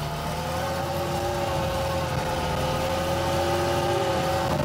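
Lada's four-cylinder petrol engine running steadily as the car drives along, heard from inside the cabin, slowly getting a little louder. It is running with its cooling system filled with motor oil and its head gasket cut to mimic a blown gasket.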